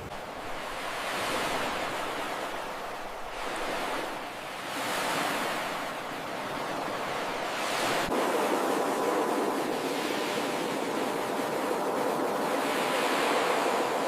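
Ocean surf: waves breaking and washing up the shore, the rushing swelling and easing every few seconds, with a faint click about eight seconds in.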